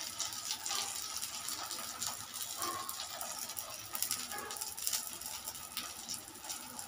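Shami kebab patties frying in shallow oil on a tawa, cooking on their second side: a steady crackling sizzle with frequent small pops.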